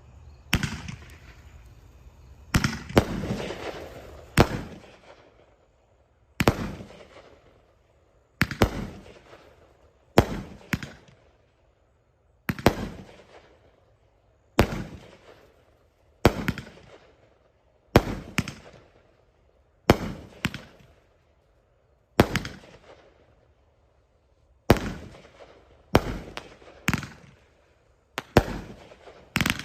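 A 200-gram consumer fireworks cake fires its shots one after another. Each shot ends in a sharp bang that fades out over about a second. The bangs come roughly every two seconds, sometimes two in quick succession.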